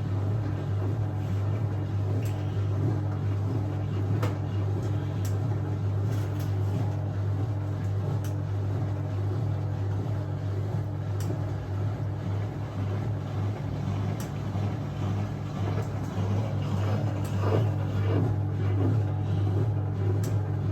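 Hoover 1400 top-loader washing machine running its spray-and-spin stage, the motor turning the tub with a steady hum and a few faint ticks.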